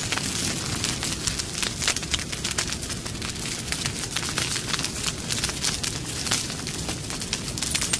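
Wood campfire burning with a steady low rumble and frequent irregular sharp crackles and pops.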